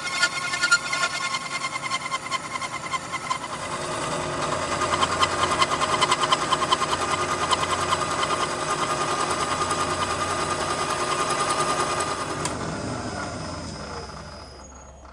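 Metalworking machine tool running with a fast, even clatter, then switched off and winding down over the last few seconds, its hum falling in pitch.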